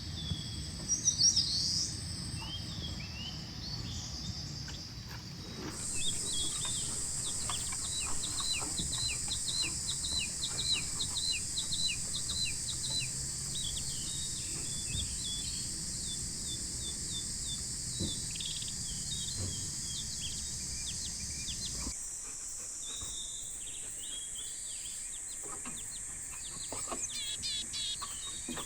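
Summer mountain forest ambience: small birds chirping and calling in quick series over a steady high-pitched insect drone. A low rumble underneath drops away abruptly about two-thirds of the way through.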